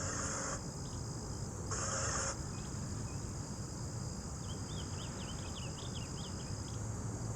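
Crickets and other insects singing in a steady, high chorus. Two short bursts of rustling noise come near the start, and a run of brief high chirps comes in the second half.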